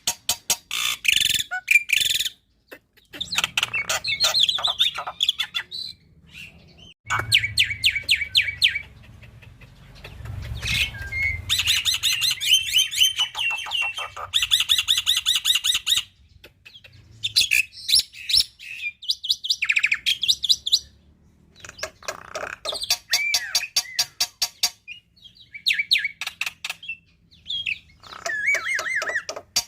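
Black-winged myna (jalak putih) singing a varied song full of mimicked calls, in bursts of a few seconds separated by short pauses: fast trains of sharp repeated notes mixed with gliding whistles and chattering.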